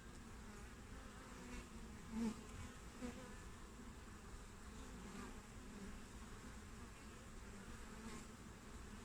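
Honeybees buzzing at a hive entrance: a steady hum of many wingbeats, with single bees flying close past, loudest a little over two seconds in and again at about three seconds.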